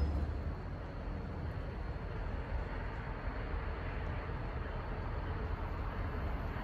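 Faint, steady rumble of a distant train approaching along the tracks, growing slightly louder near the end.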